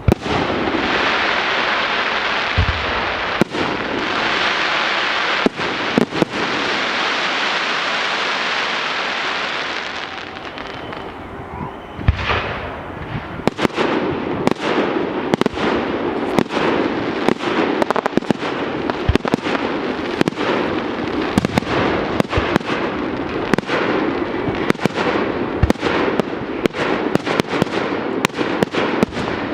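Fireworks display. For about the first ten seconds there is a dense, steady hissing broken by a few sharp bangs. About twelve seconds in a loud bang goes off, and rapid crackling and popping follow, with frequent sharp reports over the hiss.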